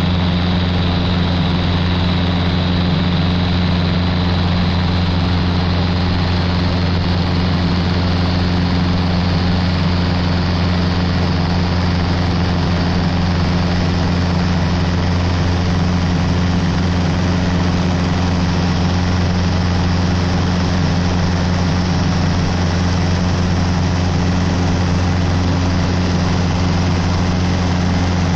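A Cessna 150's four-cylinder Continental O-200 engine and propeller drone steadily in flight over a constant rush of airflow noise.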